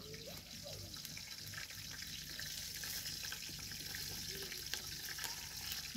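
Onions and tomatoes frying in a cooking pot: a steady sizzle with fine crackles, growing slightly louder.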